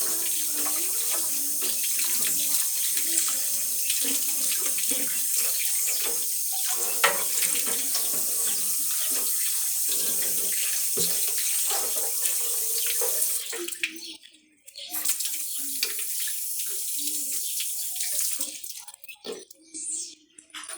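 Tap water running into a sink, with scattered knocks of items being handled under the stream. The flow stops briefly about two-thirds of the way through, runs again, then shuts off near the end.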